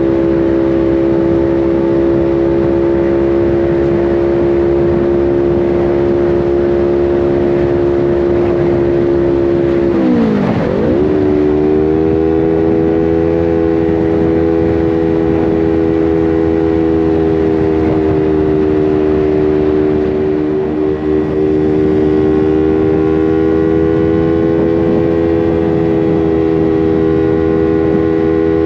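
Motorcycle engine running steadily. About ten seconds in, its note drops sharply and then climbs straight back up.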